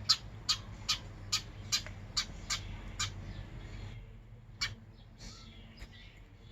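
A bird chirping: a quick run of short, sharp chirps, about two or three a second, that stops about three seconds in, followed by a few scattered single calls.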